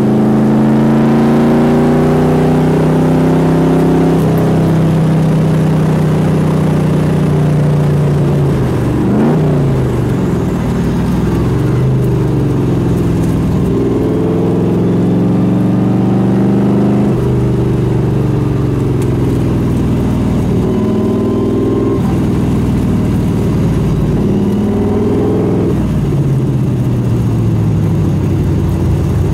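Cheetah sports car's V8 engine heard on board under hard driving: its pitch climbs through the gears and falls under braking and downshifts, over and over. Near the end it drops to a lower, steadier run.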